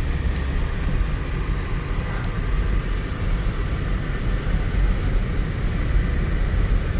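Steady cabin noise of a Saab 9-3 SportCombi's 2.0-litre turbo four-cylinder engine and tyres while driving, with a low rumble and the air-conditioning fan blowing.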